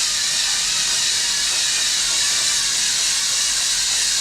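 Home-built robotic vacuum cleaner running, its suction fan giving a steady, high-pitched hiss.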